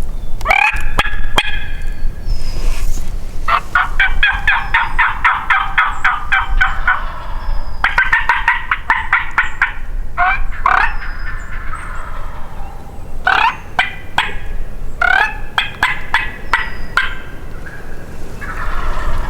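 Wild turkey gobblers (longbeard toms) gobbling loudly and repeatedly at close range, in rattling runs. The longest run lasts about four seconds, followed by several shorter bursts.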